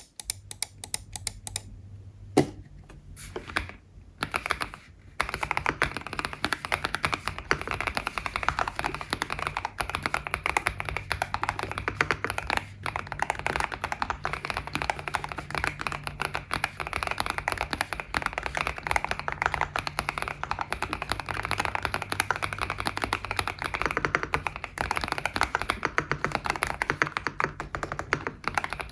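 Typing on a GMK67 mechanical keyboard with Vertex V One linear switches and ABS Cherry-profile keycaps, deep muted keystrokes of the kind called thock. It starts with a few scattered key presses, then runs into fast, continuous typing about five seconds in.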